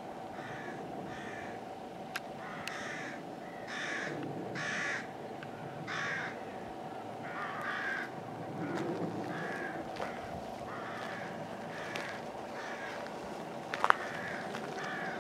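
A bird cawing over and over, short rough calls about one to two a second, over a steady low hum. A sharp click sounds near the end.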